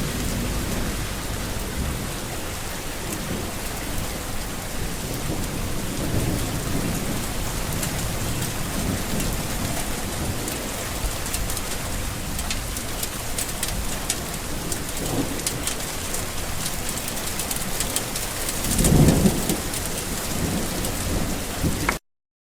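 Steady rain falling, with many single drops pattering, and a low rumble of thunder swelling briefly near the end. The sound cuts off suddenly just before the end.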